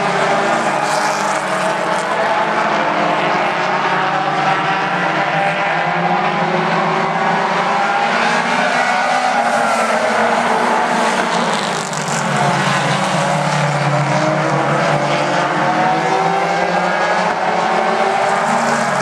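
A pack of mini stock race cars running at speed, several four-cylinder engines revving up and easing off together, their pitch rising and falling as they go through the turns.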